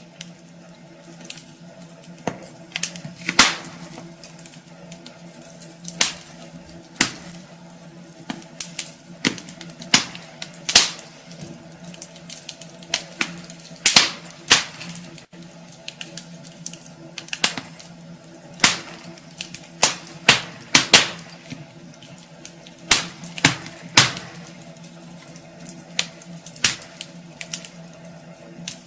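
Wood fire crackling in a fireplace: irregular sharp pops and snaps, some much louder than others, over a steady low hum.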